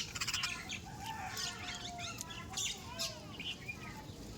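A mixed flock of birds chirping and calling over one another at a feeding spot, with a brief flutter of wings right at the start.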